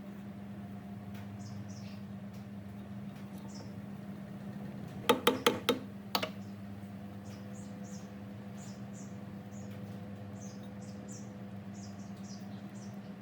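A quick run of four or five sharp knocks about five seconds in, then one more a second later, over a steady low hum. Faint high chirps recur throughout.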